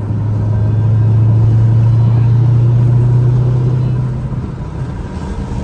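Supercharged V8 of a Dodge Hellcat under way, heard from inside the car: a loud steady low exhaust drone at even engine speed that swells about a second in and fades about four seconds in.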